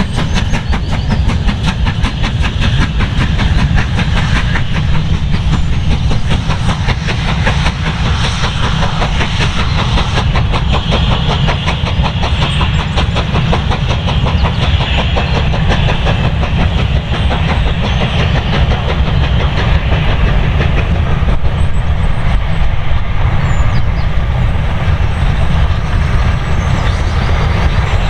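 A steam-hauled train passing close by, its wheels clattering over the rail joints in a fast, steady rhythm under a heavy rumble.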